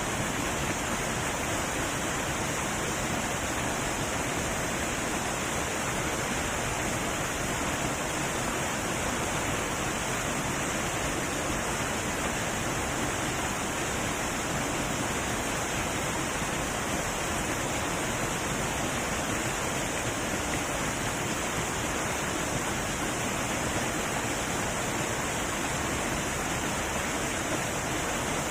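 Heavy waterfall rushing: a steady, even roar of falling water with no breaks.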